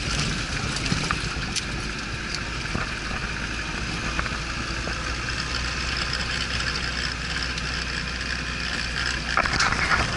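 Off-road vehicle driving: a steady run of engine and road noise with a few light rattles.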